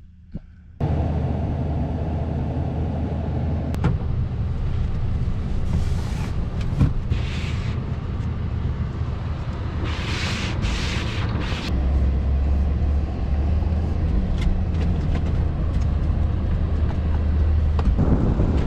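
A motor vehicle's engine running steadily while travelling, coming in suddenly about a second in, with a few brief bursts of hiss over it.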